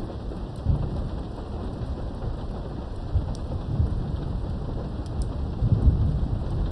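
Steady rain during a thunderstorm, heard from behind a window, with low rumbles of thunder swelling up three times.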